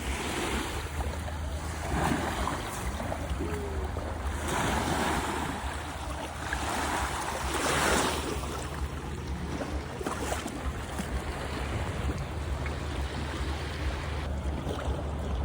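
Sea waves washing onto a beach, the surf swelling and falling away every couple of seconds, with wind buffeting the microphone.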